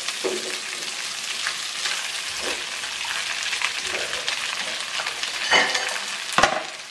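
Sliced sausages and garlic sizzling in melted margarine in a nonstick wok, stirred and scraped with a spatula, with two sharper clicks near the end.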